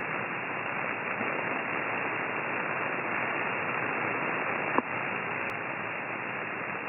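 Steady radio static hiss from a receiver's demodulated audio, cut off at a narrow voice bandwidth, with one short click near the five-second mark.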